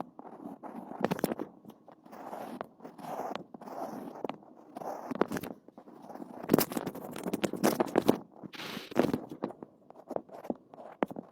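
Irregular crunching and scraping with sharp crackling snaps scattered through it, loudest in a dense cluster a little past the middle.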